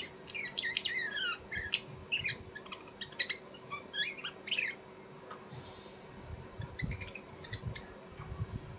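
Small birds chirping and twittering in quick short calls, some sliding down in pitch, busy for about five seconds and then thinning to a few scattered clicks. Soft low thumps come near the end over a faint steady hum.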